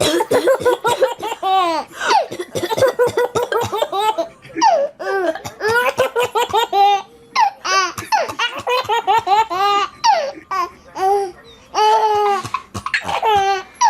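A baby laughing in fits: runs of quick, high-pitched ha-ha pulses broken by short pauses for breath.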